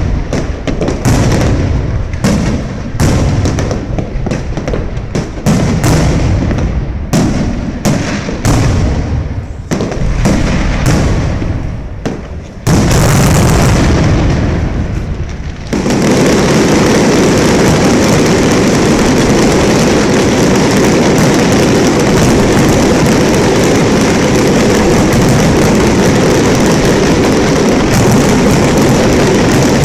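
Aerial fireworks display: a rapid string of booming shell bursts, several a second, for roughly the first half. Then the sound jumps to a loud, unbroken din that holds steady to the end.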